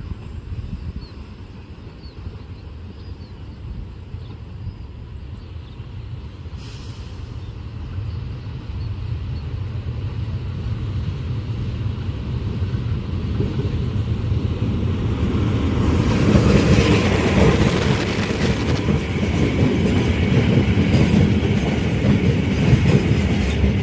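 A train approaching and passing at speed: a low rumble builds steadily, then from about two-thirds of the way through the cars rush by with loud, rushing wheel-and-rail noise.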